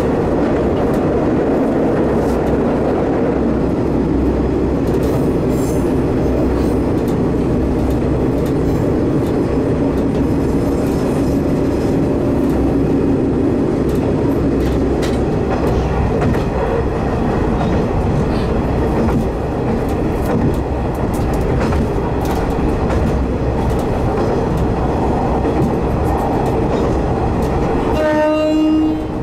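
Diesel railcar running along the line, heard from inside: a steady engine and rail rumble with wheel clicks over the rail joints. About a second before the end, a short horn blast sounds.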